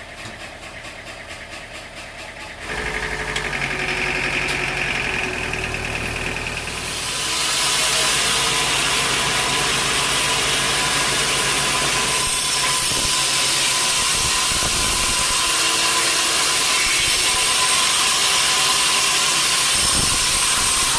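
Sawmill machinery running. A motor comes up louder about three seconds in, and from about seven seconds a saw blade runs steadily through a mahogany log with a loud, even noise and a constant whine.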